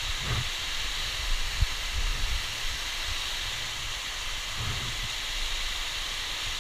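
Waterfall's falling water making a steady rushing hiss, with a few low bumps on the microphone.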